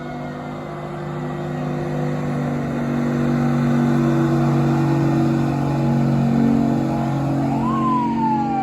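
Fire truck passing close by: a steady low drone that swells to its loudest mid-way and then eases off. A siren is falling in pitch at the start, and near the end a siren rises briefly and then slides slowly down.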